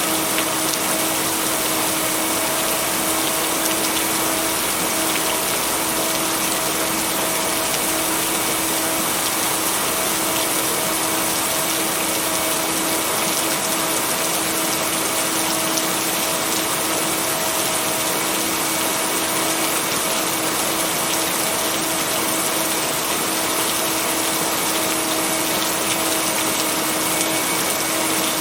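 Steady rain, an even hiss with no thunder, mixed with a steady low hum of pitched tones underneath.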